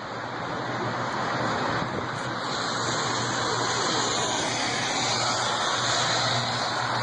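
Car driving, with steady tyre and wind noise that slowly grows louder, and a steady low hum beneath it.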